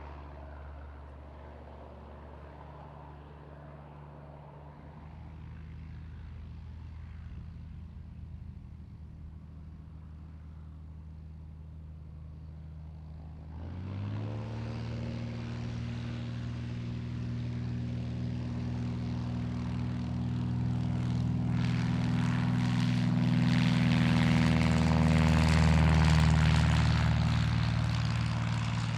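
Light propeller aircraft's engine idling, then throttled up about halfway through: the pitch rises quickly and settles at a higher steady note. The engine grows louder, peaks near the end, then begins to fade.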